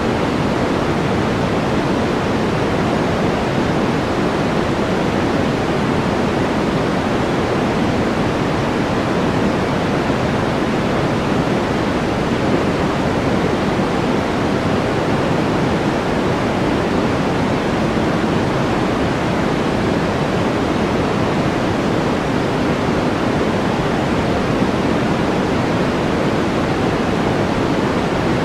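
Steady white-noise background track: an even, unchanging rushing hiss, fuller in the low and middle range than at the top.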